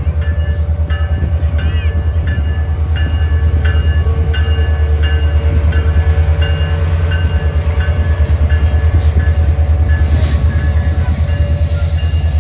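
Canadian Pacific Holiday Train's diesel locomotives arriving with a loud, steady low rumble that slowly grows louder. Over the rumble, a bell dings repeatedly at about two strikes a second.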